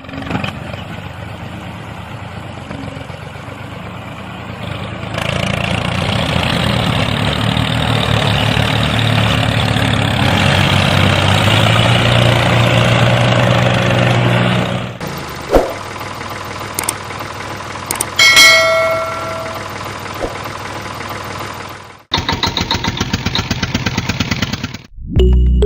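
The motor of a homemade mini loader tractor running. It grows louder and stronger for about ten seconds in the middle, then drops back, with a few clicks and a fast, even rattle near the end.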